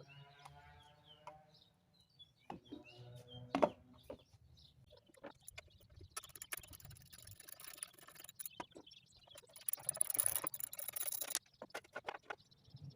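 Two hissing bursts of an aerosol spray can, each about a second and a half long, a few seconds apart, among small clicks of handling. Short pitched animal calls come before them.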